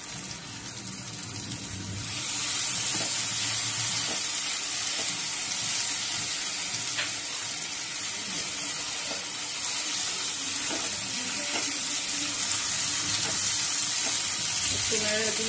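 Ginger-garlic and green chilli paste frying with onions in hot oil, a steady sizzle as it is stirred with a silicone spatula. The sizzle gets much louder about two seconds in, as the paste goes into the oil.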